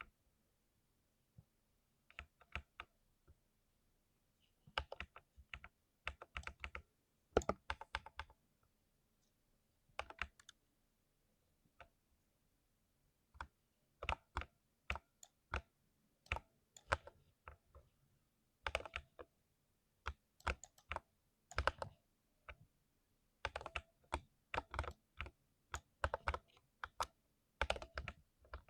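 Typing on a 60% keyboard: keystrokes clattering in irregular bursts, with brief pauses between runs, one of about two seconds just before the middle.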